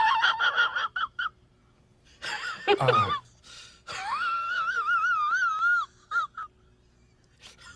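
An animal's high-pitched cries: a run of short squeaks, then a falling cry, then a long wavering whine lasting about two seconds.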